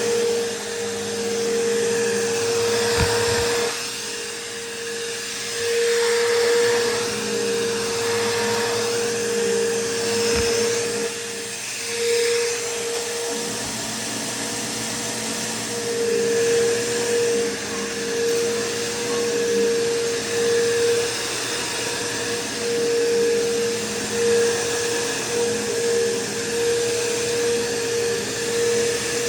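Bissell PowerForce bagless upright vacuum running over carpet, its motor holding a steady whine while the sound swells and fades again and again, going duller twice for a couple of seconds.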